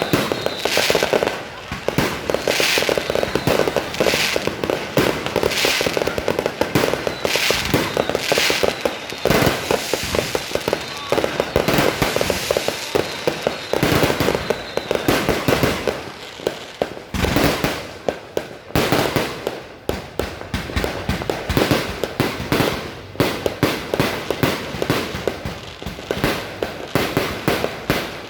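Fireworks going off nonstop: a dense, rapid run of bangs and crackles, with bigger bursts about once a second in the first half.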